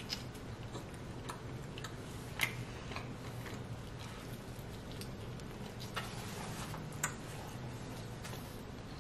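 A person biting and chewing a large slice of pepperoni pizza close to the microphone: scattered small crunches and wet mouth clicks, the sharpest about two and a half seconds in and again near six and seven seconds, over a steady low hum.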